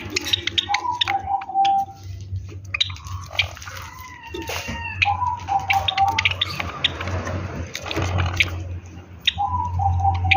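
Java sparrows bathing: sharp chirps mixed with splashing and dripping water, over a steady low hum. A short pitched call repeats about every four seconds.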